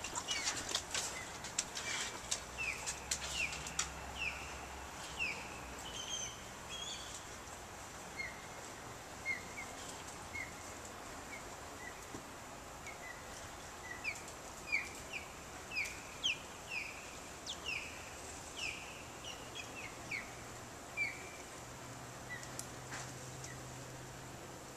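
A bird calling over and over with short, high, downward-slurred chirps, about one or two a second, with a few sharp clicks in the first few seconds.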